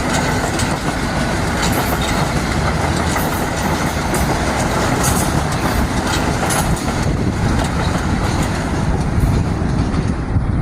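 Metro-North commuter train passing close by, with repeated wheel clicks over the rail joints. About seven seconds in the clicks and hiss thin out as the train moves off, leaving a low rumble.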